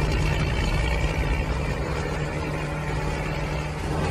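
Steady tractor-engine drone, a low even hum that holds the same pitch without revving.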